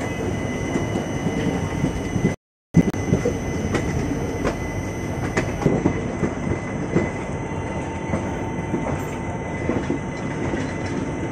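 Shalimar Express passenger train running through a station yard, heard from an open coach doorway: a steady rumble of wheels on rail with irregular sharp clicks as the wheels cross rail joints and points. The sound drops out for a moment about two and a half seconds in.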